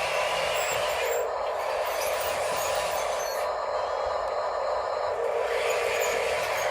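Radio-controlled scale excavators, dump trucks and a loader working together, giving a steady mechanical whir with no breaks.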